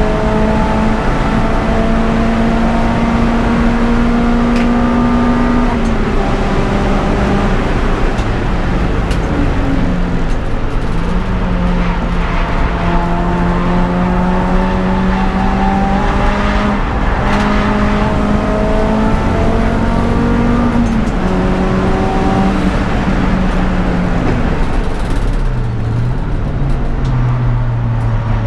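Peugeot 206 GTI's four-cylinder engine driven hard on a race circuit. Its pitch climbs slowly, then drops at each gear change, several times over.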